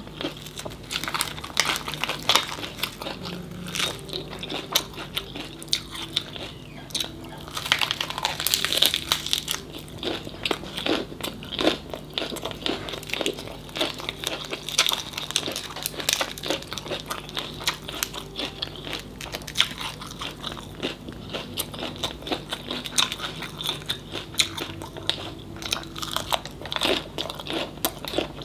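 Close-miked chewing and biting of crunchy mole crabs (tôm nhũi) wrapped in lettuce leaves: a steady run of sharp crisp crunches.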